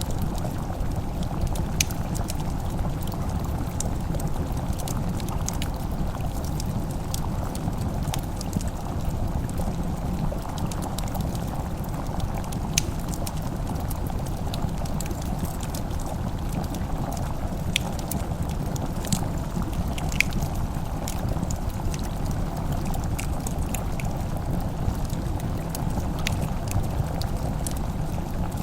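Wood fire crackling in a fireplace: scattered sharp pops and snaps over a steady low rushing noise.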